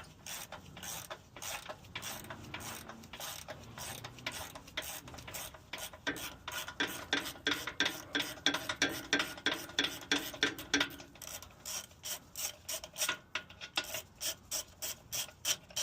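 Hand ratchet with a 15 mm socket clicking in quick repeated strokes as it backs off the bolt on a steering stabilizer. The clicking is densest and loudest between about six and eleven seconds in.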